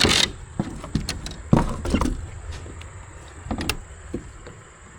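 Handling knocks and rustles as a caught bass is laid on a measuring board in a kayak: a rustling burst at the start, then several sharp taps and clicks.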